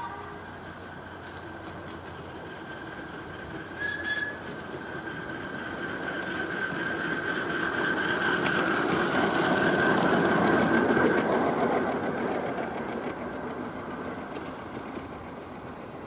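Miniature railway train running on the track, swelling to its loudest about ten seconds in and then fading, with faint rhythmic clicking of the wheels at its peak. A thin steady high squeal runs throughout, and there is a single sharp knock about four seconds in.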